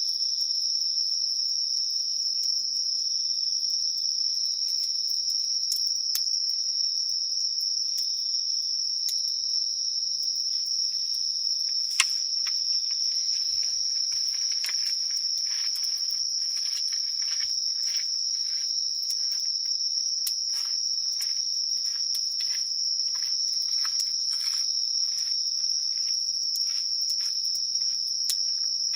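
Chorus of insects trilling steadily in one high unbroken band, over a wood campfire crackling and popping. The crackles grow denser from about twelve seconds in, where one sharp pop is the loudest sound.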